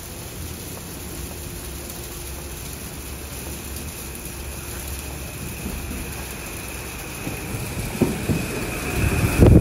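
Metro-North M8 electric multiple-unit train arriving at a station platform in rain: a low rumble with rain hiss over it, a steady high whine coming in about halfway through, and loud thumps from its wheels near the end as the lead car passes close by.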